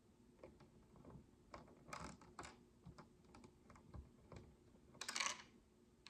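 Faint clicks and taps of tiny plastic micro bricks being handled and pressed together, irregular and scattered, with a brief louder rattling clatter about five seconds in.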